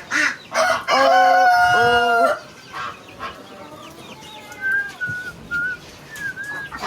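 A rooster crows once, a loud, long call about a second in. There are a few short quacks just before it, and faint high peeping later on.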